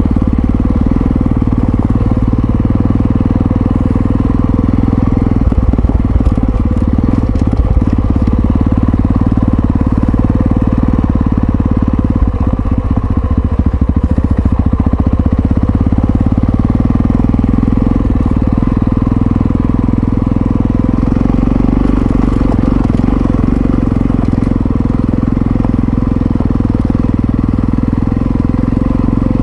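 Yamaha XT660Z Ténéré's single-cylinder engine running steadily as the motorcycle is ridden along, with a few short rattly stretches about six seconds in and again around twelve to fifteen seconds.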